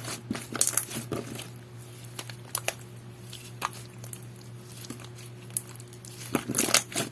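Clear water-jelly slime being pressed and squished by hand: sticky clicks and small pops, thick at first, sparse in the middle and bunching again near the end, over a faint steady hum.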